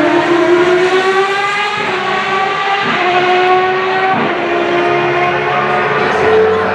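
Historic Formula One car engine running hard on track at high revs. Its note climbs, breaks briefly a few times as the gears change, and rises again near the end.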